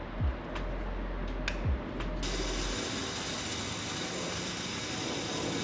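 A ratchet wrench clicking as bolts are worked, with a few dull knocks in the first two seconds. About two seconds in, a steady hiss sets in abruptly.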